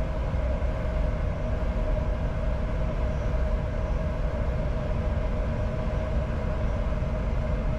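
Steady flight-deck noise of a Bombardier Challenger 605 in flight on approach: a low, even rumble of airflow and engines with a steady hum over it.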